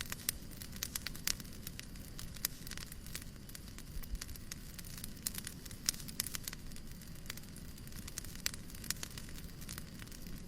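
Wood fire crackling in a fireplace: irregular sharp pops and snaps, several a second, over a steady low rushing noise.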